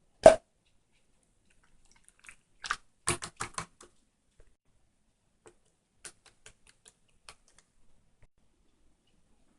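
A single loud knock, then a quick run of clicks and taps a couple of seconds later, followed by a few scattered lighter ticks.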